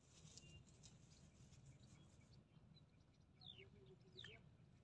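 Near silence in the open air, with a faint high crackle at first and two quick, downward-sliding bird chirps about three and a half and four seconds in.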